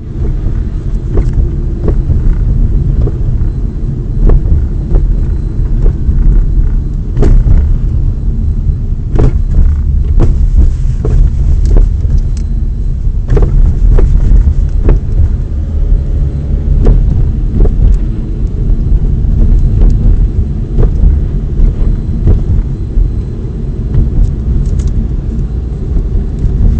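Hyundai Elantra's front-left suspension knocking over road bumps: irregular sharp knocks, a dozen or more, unevenly spaced, over the steady low rumble of the car driving. The knock points to a suspension fault in the front-left wheel area.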